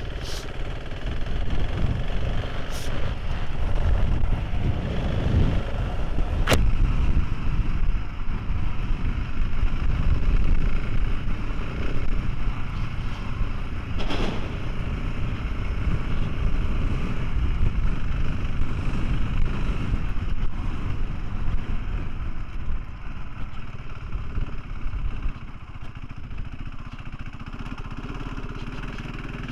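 Motorcycle engine running while riding, with heavy wind rumble on the microphone. Four short sharp clicks stand out, the loudest about six seconds in.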